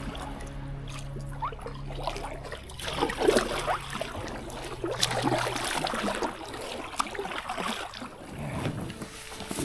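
Water splashing and sloshing around a packraft as it is paddled down a river, with irregular small splashes and drips.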